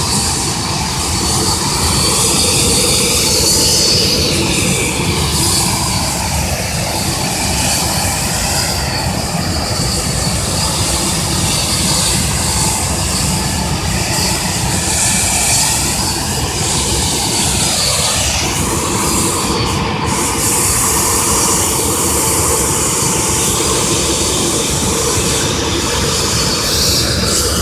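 Jet engines of a DHL cargo airliner running just after start: a loud, steady rush with a thin, high whine above it, the tone slowly sweeping up and down.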